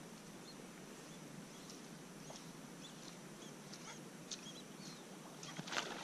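Faint, scattered short bird chirps and whistles over a quiet background hiss.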